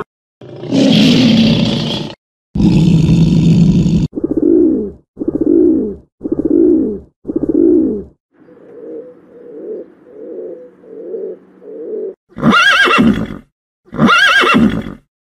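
A lion roaring: two long roars followed by four shorter grunting calls about a second apart. Then a pigeon cooing in a soft series of five coos. Then a horse neighing twice, loud and high.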